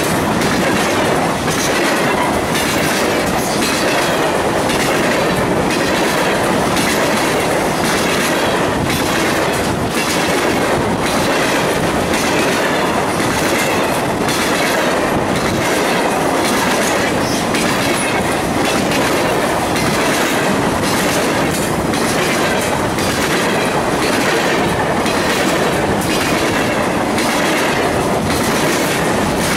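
Loud, steady passing of an empty grain train's covered hopper cars: steel wheels running on the rails with repeated clickety-clack over the rail joints and rattling of the empty cars.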